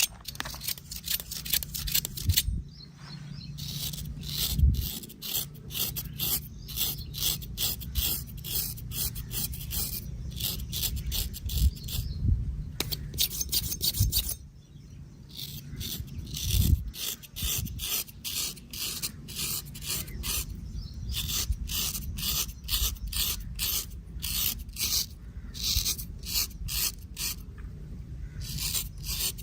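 Straight razor scraping through stubble on skin in quick short strokes, about three a second, in runs broken by a few brief pauses, with a few dull low thumps.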